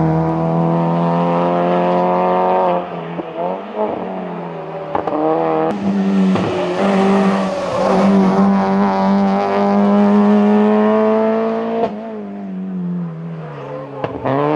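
Peugeot 206 hillclimb car's engine running hard at high revs, its note breaking and changing pitch several times as the driver shifts gear.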